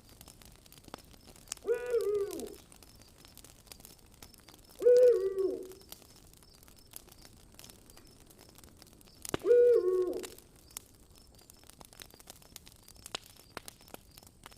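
An owl hooting three times, each call about a second long and dropping in pitch at the end. Beneath the hoots, a campfire crackles with scattered small pops.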